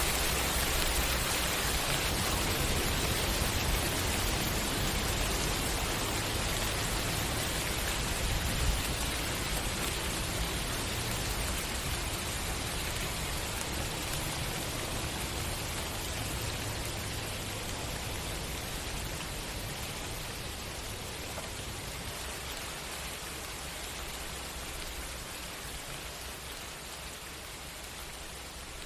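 Steady rain falling, a dense even hiss that slowly grows quieter.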